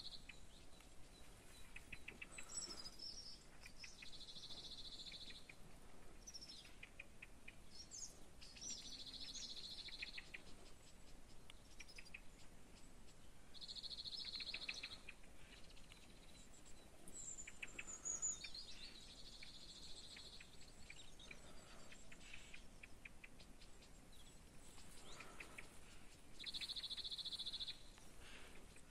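Birds singing: scattered high chirps and short trills, with a buzzy call of about a second and a half that comes back five times, every few seconds.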